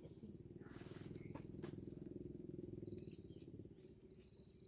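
Crickets trilling steadily in a high, even tone, over a faint low rapid throbbing that swells and fades within the first three and a half seconds, with a few light clicks.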